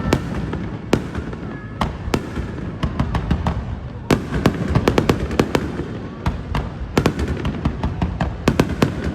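Fireworks going off: a rapid, uneven string of bangs and crackling reports. The reports come in thicker clusters about four seconds in and again near the end.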